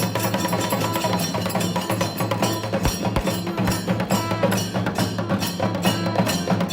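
Temple festival percussion music: a fast, steady drumbeat over a sustained low drone.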